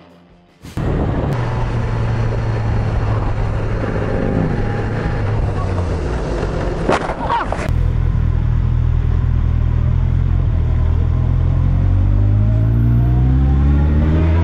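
Motorcycle engine running steadily under road and wind noise, with a sharp clatter about seven seconds in. Later the engine note climbs as the bike accelerates near the end.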